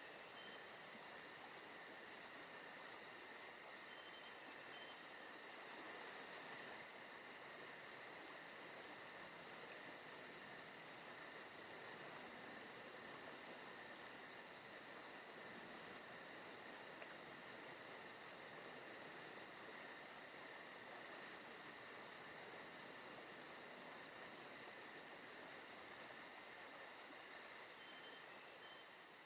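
Faint forest ambience of crickets and other insects trilling steadily, high-pitched and with a fast, even pulse.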